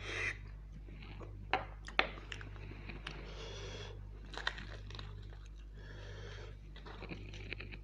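Close-miked mouth sounds of a person eating mutton curry with his fingers: wet chewing, lip smacks and sharp clicks, the loudest at about one and a half and two seconds in. A steady low hum runs underneath.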